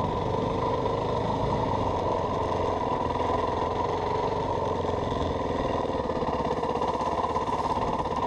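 Yamaha WR450F dirt bike's single-cylinder four-stroke engine running steadily at an even pitch.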